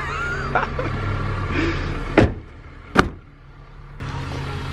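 A car engine idling with a steady low hum while two car doors are shut about a second apart, each a sharp thump. The hum dips for about a second after the second thump.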